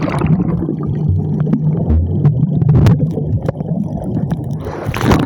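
Muffled underwater sound from a camera dipped below the sea surface: a low steady hum and gurgling, with the treble cut off until the camera comes back out of the water near the end.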